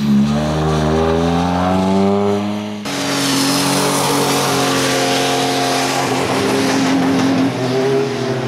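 A Mazda3 hatchback's engine revving hard and rising in pitch as it accelerates through a slalom cone course. After an abrupt cut, a compact pickup truck's engine runs under load over a loud hiss of tires on rain-soaked pavement, and its pitch steps up near the end.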